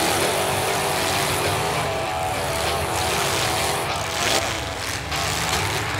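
Demolition derby car engines running and revving, their pitch wavering up and down over a steady din.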